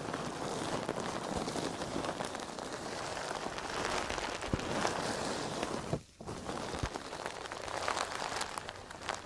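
Crispy, dried-out sponge being handled close to the microphone, crackling densely with many tiny snaps, with a brief pause about six seconds in.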